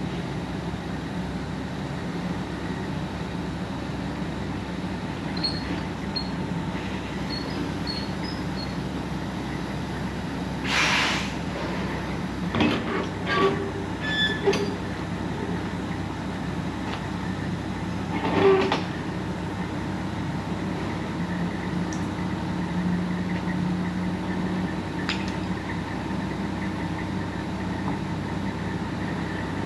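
Truck engine running steadily, heard from inside the cab while the truck is manoeuvring to back into a dock. A short hiss comes about eleven seconds in, and a few knocks and clunks follow over the next several seconds.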